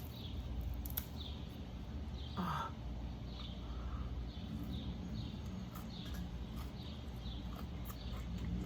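A bird chirping over and over, a short falling chirp about once or twice a second, with one louder falling call about two and a half seconds in, over a steady low background hum.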